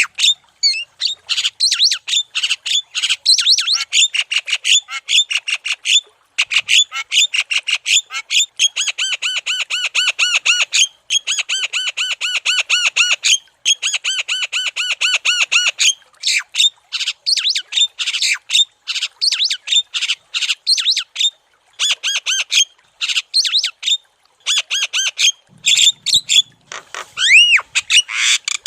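Javan myna calling in fast, continuous chatter: harsh squawks and chirps in quick series with short breaks. A run of evenly repeated notes comes in the middle, and a few looping, rising-and-falling whistles come near the end.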